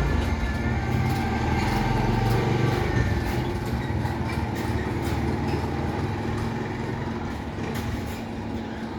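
Steady low rumble of a running machine, with a constant hum and a few light clicks.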